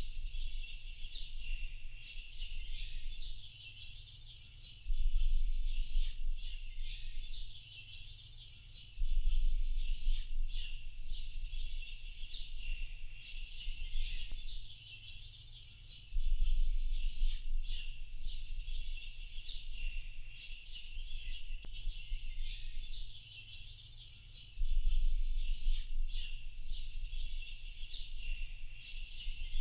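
Dense chorus of many small birds chirping and twittering without a break. A low rumble cuts in suddenly four times, each time for a few seconds, and is the loudest part.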